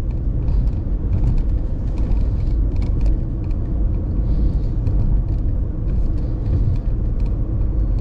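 Steady low rumble of road and engine noise inside a moving car's cabin, with faint light clicks over it.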